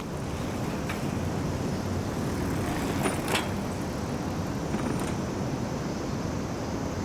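Steady road traffic noise from passing cars, with a few short sharp clicks about three seconds in and again near five seconds.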